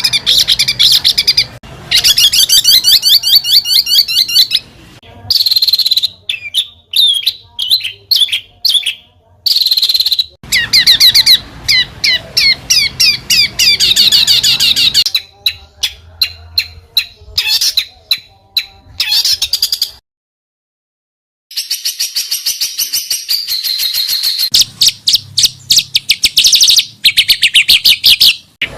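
Songbird song made of rapid trills, chips and sharp repeated high notes. It breaks off for a second or two about twenty seconds in, then resumes.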